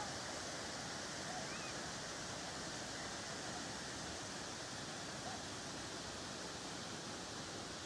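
Waterfall rushing steadily: a constant, even wash of falling and splashing water.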